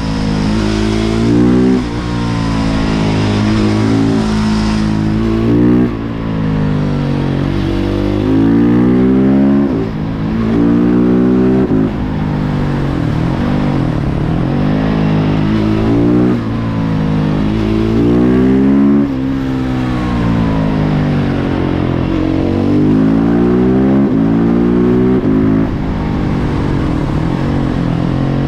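Husqvarna 701 Supermoto's single-cylinder engine through a Remus Blackhawk exhaust, revving up and dropping back over and over as the bike pulls through the gears and rolls off the throttle on the road.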